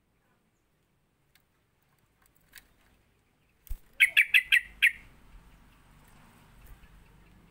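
Yellow-vented bulbul calling: a quick run of about six sharp chirps, coming after a faint click a few seconds in.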